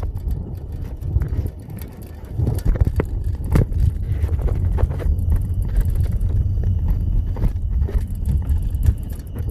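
Low rumble and scattered clicks and knocks, typical of wind and handling noise on a handheld phone microphone outdoors.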